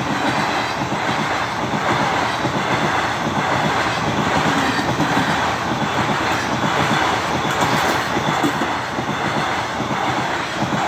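Intercity Express passenger train's chair-car coaches running past close by: a steady loud rumble with the rattling clatter of the wheels over the rails.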